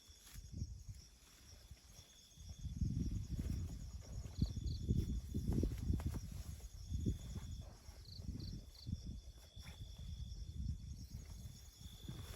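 Forest insects chirping and trilling: a steady high trill, with short chirps in twos and threes, over an irregular low rumble that swells in the middle and eases off.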